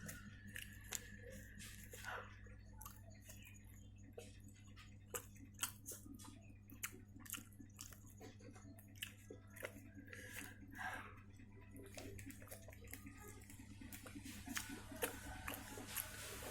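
A person chewing fried chicken, with many short, irregular wet clicks and smacks of the mouth over a faint steady low hum.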